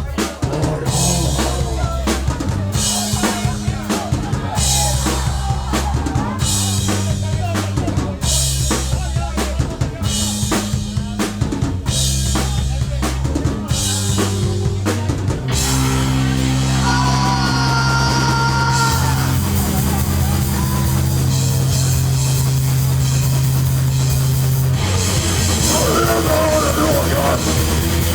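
Hardcore punk band playing live and loud: drum kit beating over a changing bass-guitar riff, then from about halfway the band holds sustained chords.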